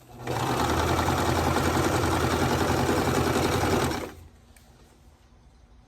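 Sewing machine stitching a seam at a steady speed for about four seconds, then stopping.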